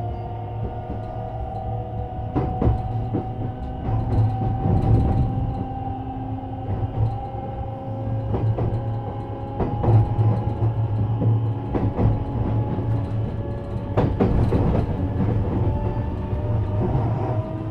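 JR West 321 series electric train running along the line: traction motors whining, the whine slowly rising in pitch as the train gathers speed, over a steady rumble, with wheels clacking over rail joints now and then.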